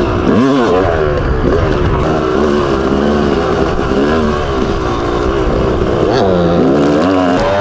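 Yamaha YZ250 two-stroke dirt bike engine being ridden, its pitch rising and falling again and again as the throttle is worked.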